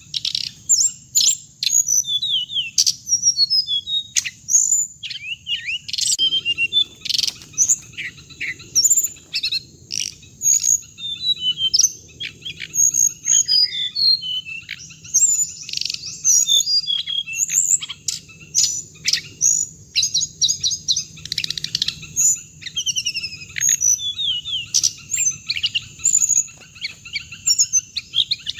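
A hồng hạnh songbird singing a continuous, rapid run of high chirps and twitters, one note after another with barely a pause, over a faint low hum from the recording.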